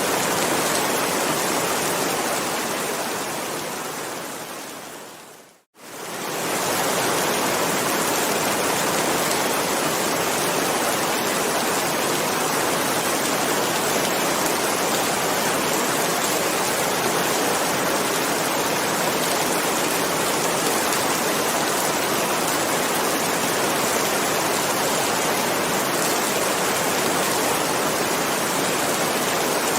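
Steady heavy rain, an even dense hiss. A couple of seconds in it fades away to a brief silence about six seconds in, then quickly fades back in and runs on unchanged.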